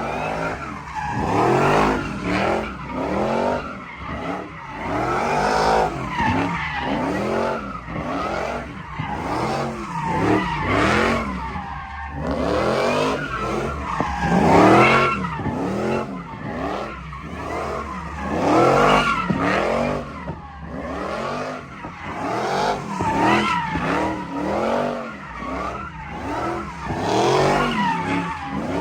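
Vehicle engines revving hard and falling back again and again, rising and dropping in pitch every second or so, with tires squealing: vehicles drifting.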